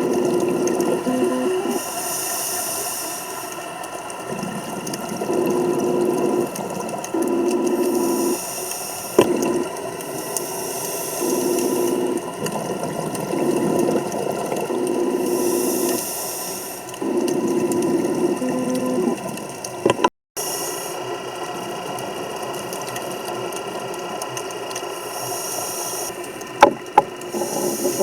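Scuba diver breathing through a regulator underwater: a buzzing regulator sound on each inhale alternates with a hissing rush of exhaled bubbles, several breaths in a row. A few sharp clicks are heard about nine seconds in and again near the end.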